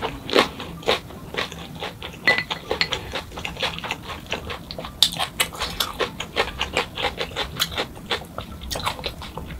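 Close-miked chewing: a person chewing food with wet mouth clicks and smacks coming several times a second in an uneven run.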